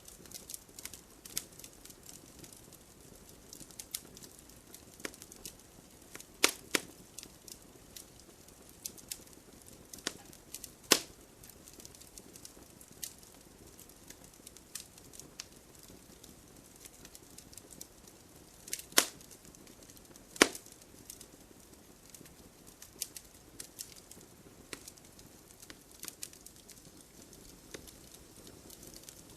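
Wood fire burning in a fireplace, a low steady hiss broken by irregular crackles and sharp pops, several of them loud.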